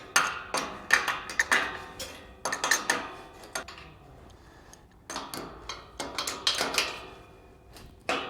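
Steel gate clanking against its hinge pins as it is lowered and worked into place: a run of sharp metal knocks and rattles with a brief ring after them, easing off for about a second midway and then starting again.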